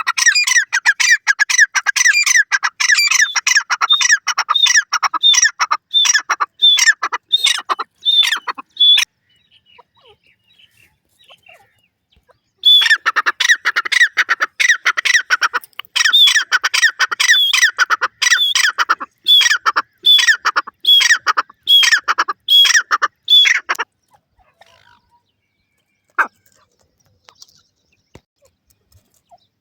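Francolin (teetar) calling: two long runs of rapid, harsh repeated calls, about two a second, separated by a pause of a few seconds. The calling stops about three-quarters of the way through, with one short sharp sound a little later.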